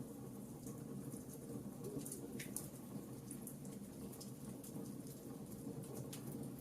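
Campfire crackling: irregular small snaps and pops, one sharper pop about two and a half seconds in, over the low steady rush of the burning fire.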